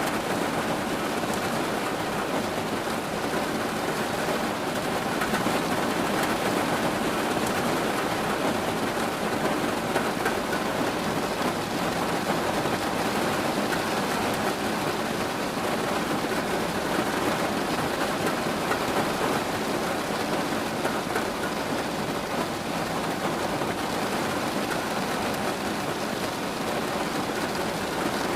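Steady rain falling, a dense even patter of drops without a break.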